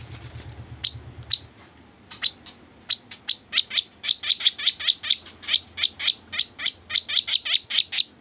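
Kaso-kaso bird singing a lure call: a few sharp high chirps, then from about two seconds in a fast, unbroken string of short falling chirps, about five a second. A low hum sounds underneath for the first second and a half.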